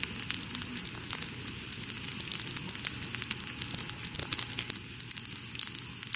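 Wood campfire crackling, with scattered sharp pops over a steady hiss and a thin high tone.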